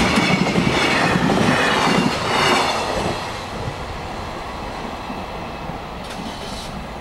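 Freight train's last wagons rattling past at speed over a level crossing, with a clatter of wheels on rail joints; the noise falls away about three seconds in as the train moves off, leaving a lower, steady sound.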